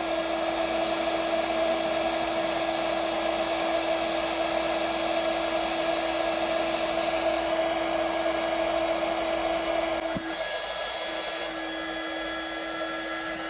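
Electric heat gun running steadily, blowing hot air onto a plastic blower tube to shrink it: an even rush of air over a constant motor hum. It gets slightly quieter about ten seconds in.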